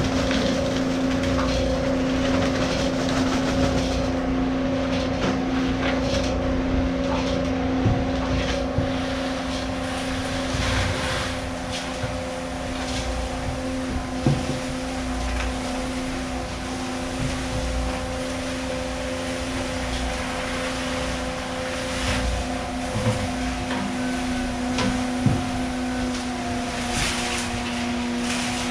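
A motor running steadily with a constant hum, with scattered knocks and clatter over it, the sharpest a little past the middle and again near the end.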